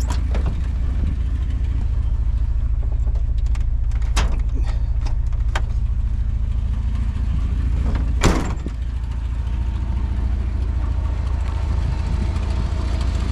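The 1990 Dodge Power Ram's 3.9-litre V6 idling with a steady low rumble through its glass-pack muffler. A few light clicks and, about eight seconds in, one louder thump, like a door or latch, sound over it.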